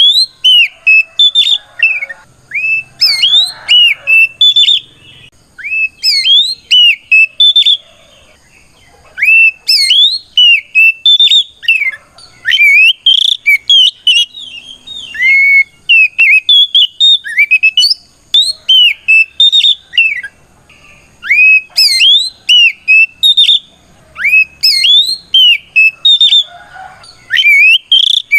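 Oriental magpie-robin singing loudly: quick runs of clear whistled notes that swoop up and down, in bursts with short pauses. It is the full, open song that a male uses to call out a rival.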